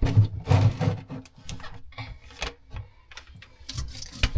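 Plumbing parts being handled: irregular clicks, knocks and rubbing as a sink pop-up drain fitting and its washer are worked by hand, with the heaviest knocks in the first second.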